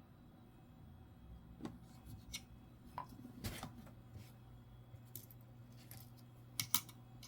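Coins being handled and set down, giving scattered small clicks and taps, the loudest two close together near the end, over a faint steady hum.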